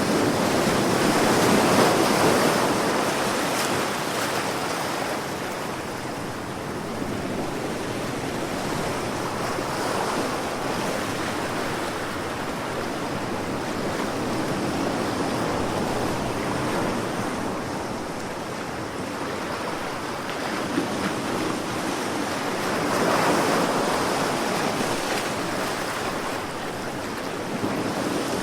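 Sea waves breaking and washing on a shore, a steady rush of surf that swells as a wave breaks about two seconds in, again around ten seconds, and once more near the end.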